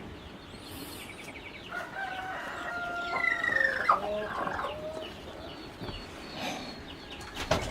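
A rooster crowing once, a long call starting about two seconds in, with chickens clucking.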